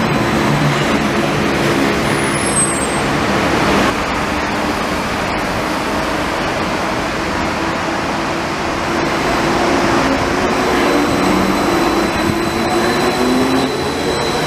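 Light rail train running: a steady noise with a low hum that shifts up and down in pitch.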